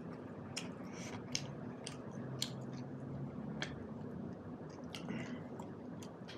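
A person chewing buffalo meat and dhido with the mouth open, with irregular wet clicks and smacks.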